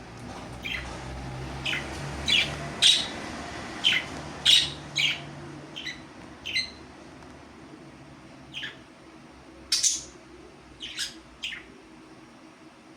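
A parrot giving short, sharp chirps, about a dozen, irregularly spaced and coming thicker in the first half.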